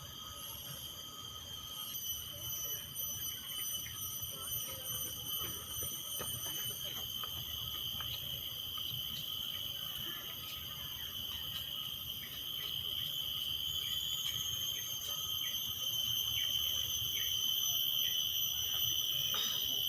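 A chorus of insects shrilling steadily in several high, unbroken tones, growing louder in the second half, with scattered short chirps beneath.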